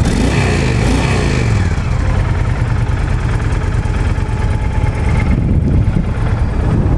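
2007 Honda VTX1300R's liquid-cooled 1300cc V-twin running on its factory exhaust. The engine speed falls back toward idle in the first second or so, then it idles steadily.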